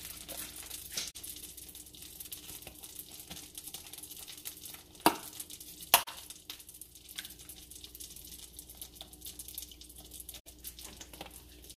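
Butter sizzling in a frying pan on the stove, a steady crackling hiss, with two sharp knocks about five and six seconds in.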